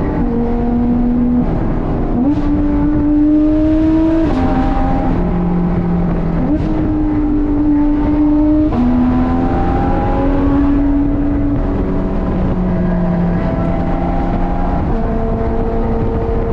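Porsche 991.2 GT3RS's naturally aspirated flat-six, running through Dundon street headers and a crack pipe exhaust, pulling hard on a winding road. Its pitch steps up and down every second or two as it shifts through the gears.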